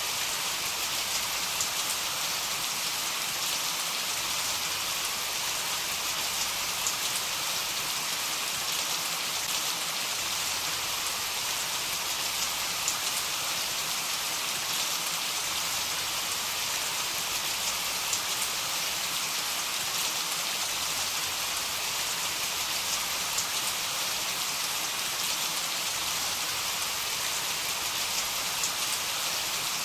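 Heavy rain falling steadily: a dense, even hiss with scattered sharper ticks of individual drops.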